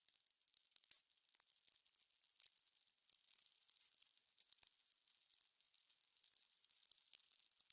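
Fire crackling: irregular small pops and snaps over a soft, steady hiss.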